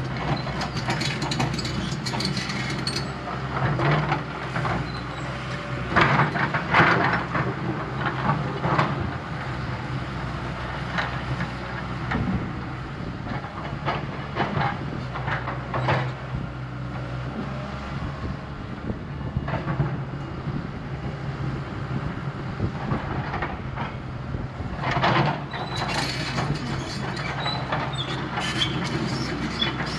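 Diesel engine of heavy earthmoving machinery running steadily, with bursts of metallic clanking and scraping a few times, strongest about six seconds in and again near the end.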